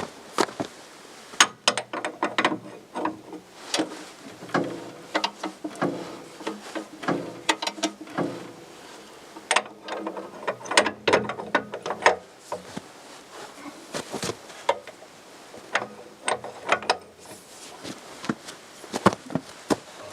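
Ratchet wrench clicking in irregular spurts, mixed with sharp metal clanks of tools and steel parts, as bolts are worked on.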